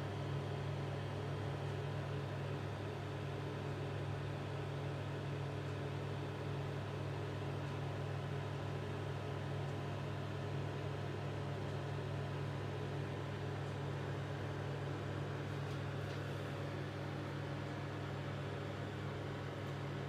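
Miele M 8260-2 built-in microwave oven running, a steady low hum that does not change.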